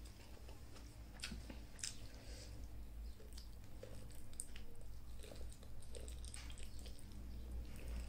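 Mouth sounds of a person eating rice by hand: chewing, with small wet clicks and smacks scattered through, over a steady low hum.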